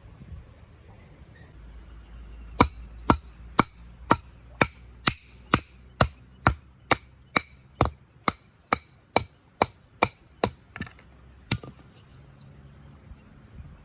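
A series of about twenty sharp, evenly spaced blows, roughly two a second, starting a few seconds in and stopping near the end; each strike rings briefly.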